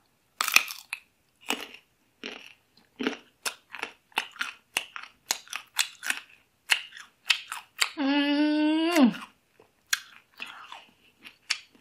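Crisp bites and chewing of raw young green mango, with a loud crunch at the first bite and many smaller crunches after it. Later on, a hummed 'mmm' from the eater lasting about a second, dropping in pitch as it ends.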